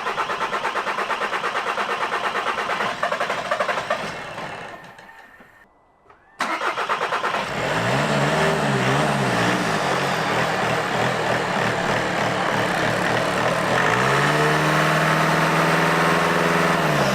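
Audi A3 2.0 TDI diesel engine on its first start after a service. The starter cranks steadily for a few seconds and stops, then cranks again about six seconds in. The engine catches, is blipped twice, settles to idle, and is then revved and held near the end.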